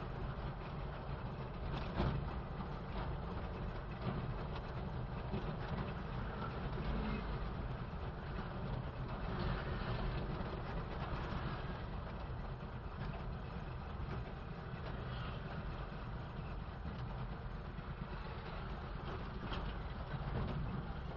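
Old BMC truck's engine running steadily, with a brief sharp knock about two seconds in.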